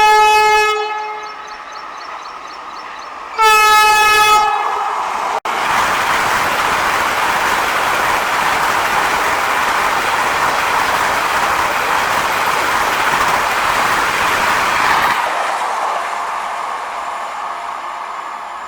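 Vande Bharat Express (Train 18) electric train sounding its horn twice, then going by at high speed with a loud, steady rush of wheel and air noise for about ten seconds that fades near the end.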